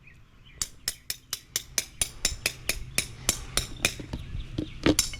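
Concrete stamping tamper striking the stamp mats laid on wet concrete, about four sharp, even blows a second, pounding the pattern into the slab. A few more blows come near the end.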